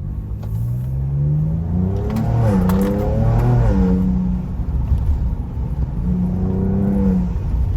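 Ford Ranger Raptor's twin-turbo V6 accelerating hard. The engine note climbs, drops back at quick upshifts about two and four seconds in, then pulls again.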